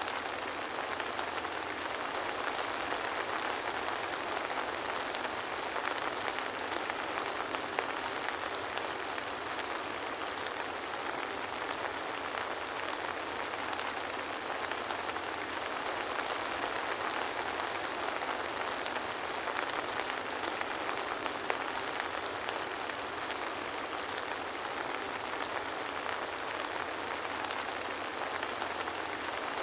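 Steady soft rain falling, an even, dense patter of drops with no thunder.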